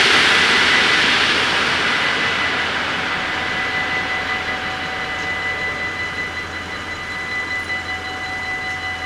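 A Mat '64 electric train running past the level crossing, its rushing noise fading away. Over it the crossing's warning bells keep ringing steadily.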